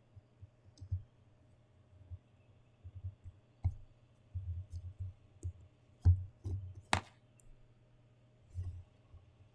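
Scattered clicks, taps and soft knocks from hands handling packaging during an unboxing, with one sharp click about seven seconds in.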